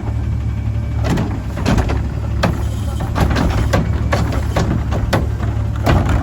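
Autocar ACX garbage truck with a McNeilus Contender body running at a steady low drone, with a string of irregular sharp clanks and knocks from the truck's handling gear and bins over it.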